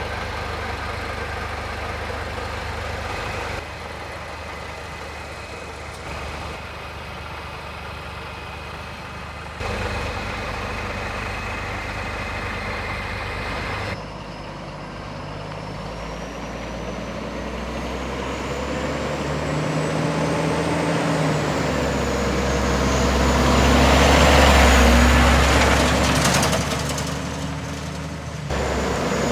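Scania R480 truck's straight-six diesel engine idling steadily through a few short cuts, then pulling away with its pitch rising as it gains speed, growing louder to a peak near the end before easing off.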